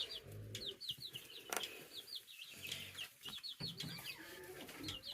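Young barnyard-mix chicks peeping: many short, high, falling peeps in quick succession, with a few faint clicks.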